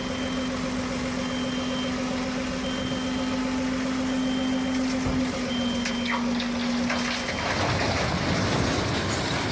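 A truck sound with a steady low hum and a high beep that sounds on and off about once a second, like a reversing alarm. The hum stops about three-quarters of the way in, leaving a rougher, noisier rumble.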